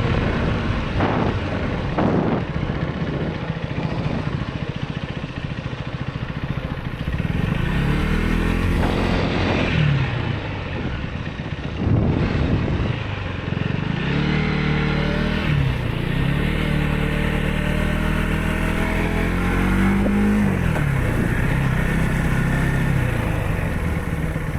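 Motorcycle engine under way, its pitch climbing as it is revved up and dropping back several times, like gear changes, over a steady rush of wind and road noise.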